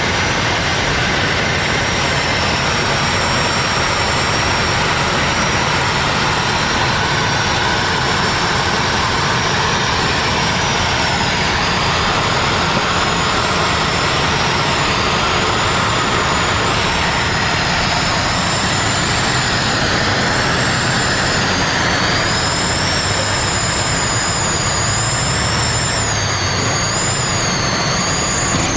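Steady, loud drone of a Zlin Z-226MS's single piston engine and propeller in flight, with a few high tones that waver slightly.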